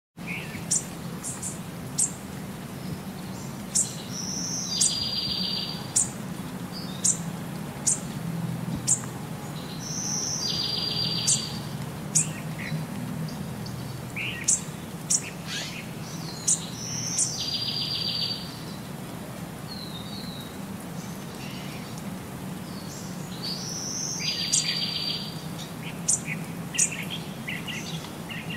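Bird calls: many short, high chirps, with a buzzy call about a second long that comes back four times, every six to seven seconds, over a low steady hum.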